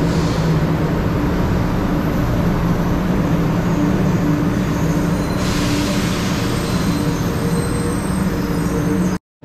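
A Shinkansen train at a station, its equipment giving a steady mechanical hum with a few held tones. A hiss joins about five seconds in, and the sound cuts off abruptly near the end.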